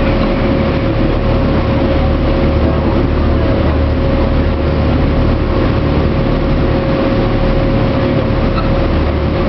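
A boat's engine running steadily, heard on board as a constant low drone with a thin steady tone over it.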